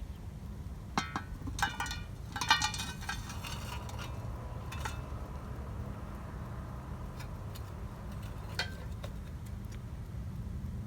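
Kitchenware clinking: several sharp ringing clinks about one to three seconds in, one ring fading slowly, then two lighter clinks later. A steady low rumble runs underneath.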